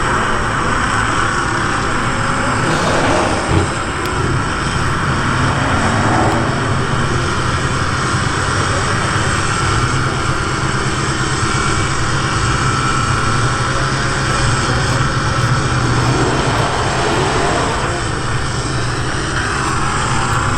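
Car engine and road noise at speed, a loud steady drone.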